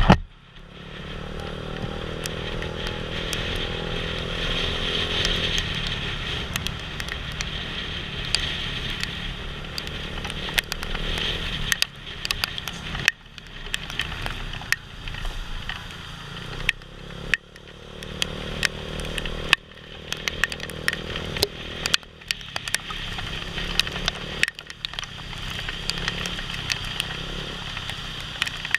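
Small motorcycle engine running while riding, its note rising and easing off several times with the throttle, under wind rush and many sharp ticks of rain hitting the helmet camera.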